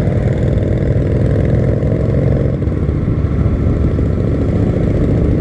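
Honda Shadow's V-twin motorcycle engine running steadily while riding. Its tone shifts about halfway through.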